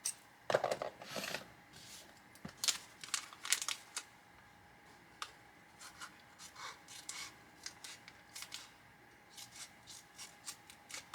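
Scissors snipping a small paper bag open, with paper rustling between the short, scattered snips.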